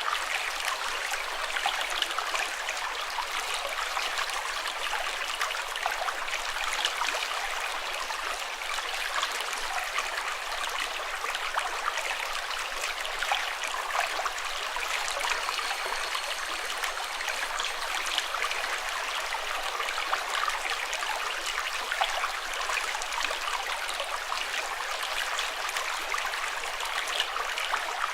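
Running water, a small stream trickling and splashing steadily with a constant rushing hiss.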